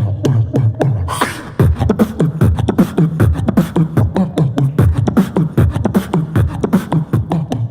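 Human beatboxing: fast mouth-made kick, snare and click sounds over a hummed, stepping bass line, with a short hissing burst about a second in.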